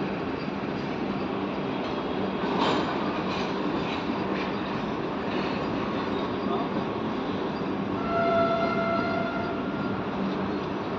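Passing train rumbling steadily on the rails, with a run of wheel clicks a few seconds in. A horn sounds for about two seconds near the end.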